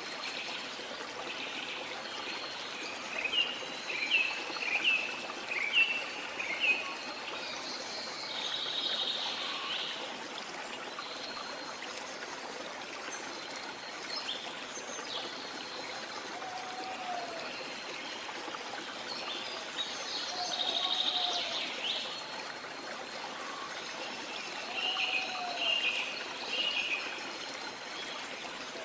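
Steady rush of a waterfall with rainforest birds calling over it: a quick run of about six chirps, then two buzzy trills and a few short low whistled notes, and another cluster of chirps near the end.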